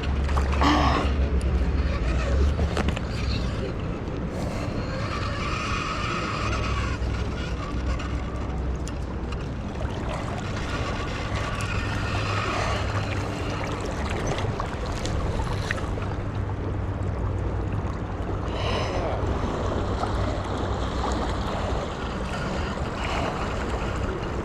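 Steady rush of river water with a low rumble of wind on the microphone.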